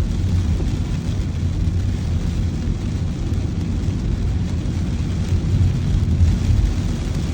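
Steady low rumble of a car driving, with a fainter even hiss above it.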